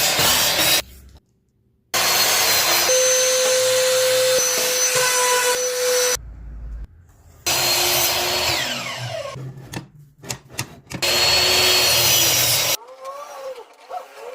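Electric power tools working wood in several short runs, each a loud steady motor whine with the noise of the wood being cut or shaped, each breaking off suddenly.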